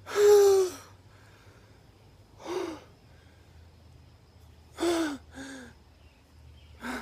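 A man sobbing and crying: a loud, falling, wailing sob at the start, then shorter breathy sobs and gasps every couple of seconds.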